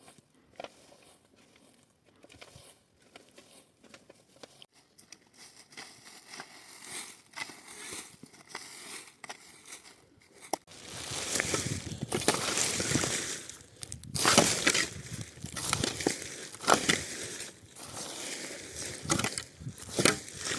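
Crunching and crackling noises, like dry material being crushed or handled: sparse faint clicks at first, then louder and denser about halfway through.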